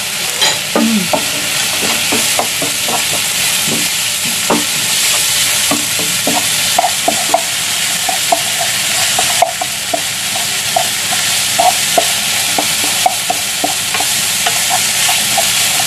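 Chopped ginger, garlic and red chillies sizzling in hot oil in a frying pan, with a wooden spatula stirring and knocking against the pan in short, irregular taps. The aromatics are being sautéed until fragrant.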